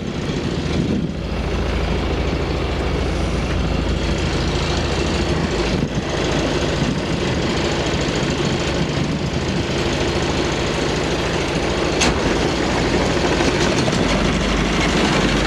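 Hire motor cruiser's inboard engine running steadily under way, a constant low hum heard on board.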